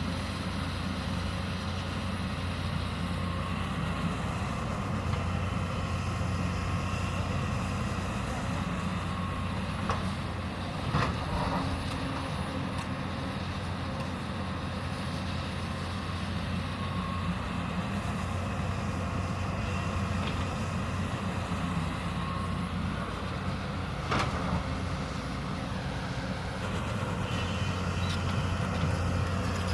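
Diesel engine of a Hyundai 220 excavator running steadily under work, with a few short sharp knocks about a third of the way in and again later, typical of the bucket striking soil and rock.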